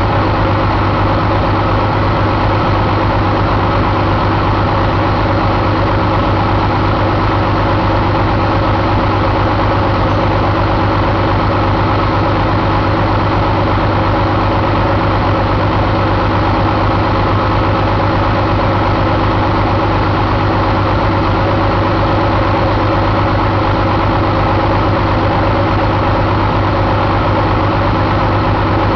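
Paccar MX13 inline-six diesel engine idling steadily, with no change in speed.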